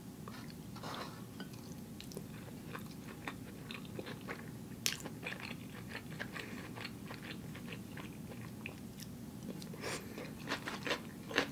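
A person chewing a mouthful of rice and curry close to the microphone: faint, scattered wet clicks and smacks of the mouth, growing busier near the end.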